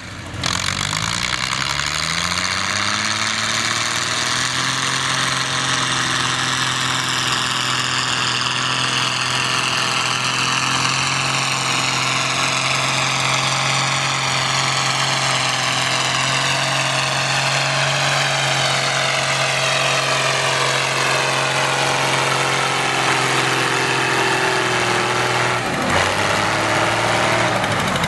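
Tractor engine revving up over the first few seconds of a pull, then running at high revs under load for about twenty seconds, its pitch slowly sinking as the load tells. About 26 seconds in it drops off briefly, then runs on.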